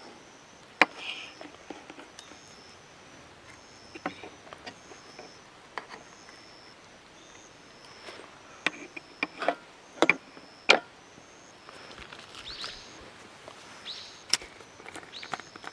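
Irregular sharp wooden knocks and snaps, a cluster of the loudest about halfway through, with faint high chirps of birds or insects behind.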